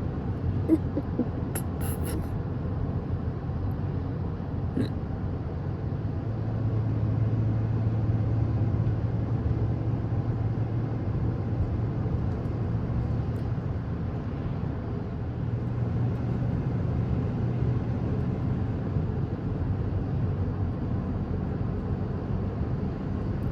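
Steady low rumble of a moving car heard from inside the cabin, engine and road noise together, with a low hum that swells slightly now and then and a few faint clicks in the first few seconds.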